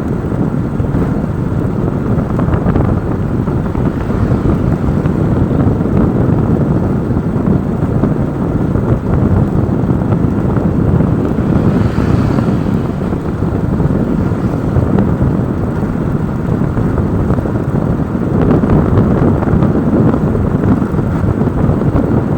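Steady wind rush on the microphone over the road and engine noise of moving vehicles.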